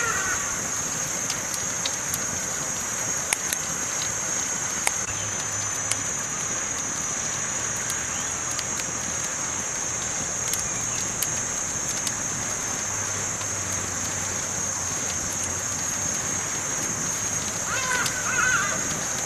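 Campfire burning, with scattered sharp crackles and pops over a steady hiss. A brief warbling sound comes in near the end.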